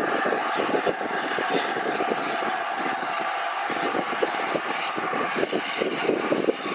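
LNER A4 Pacific steam locomotive 60007 Sir Nigel Gresley running light engine. A steady hiss of steam carries on throughout, with irregular crackling beneath it.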